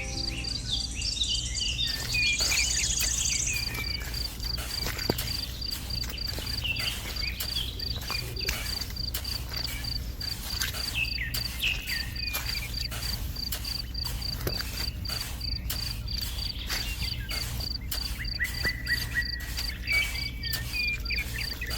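An insect chirping steadily in an even, high pulse, about three times a second, with scattered short bird calls and a low steady hum underneath.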